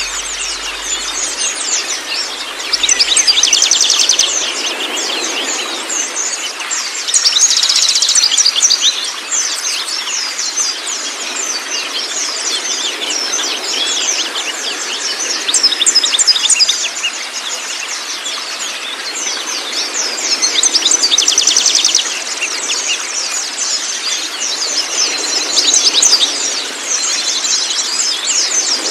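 Songbirds singing continuously in fast chirps and rapid trills, with louder bursts of trilling every few seconds, over a steady rush of flowing water.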